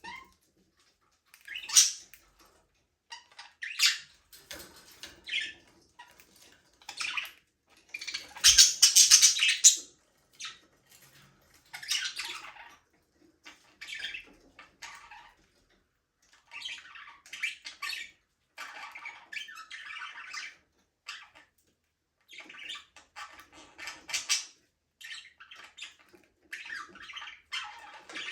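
Pet budgerigars chirping and chattering in short, irregular bursts of high calls with brief pauses between them, the loudest and longest burst about a third of the way in.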